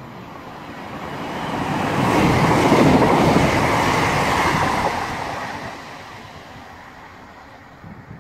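Passenger train passing through the station at speed: a rumbling rush of wheels on rails that swells, is loudest for a few seconds in the middle, then fades as the train draws away.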